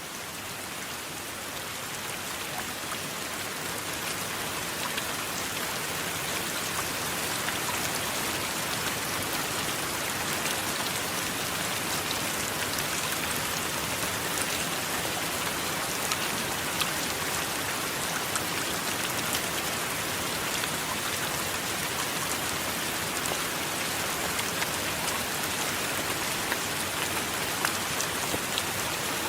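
Steady rain with scattered sharp drop ticks, growing slightly louder over the first few seconds and then holding even.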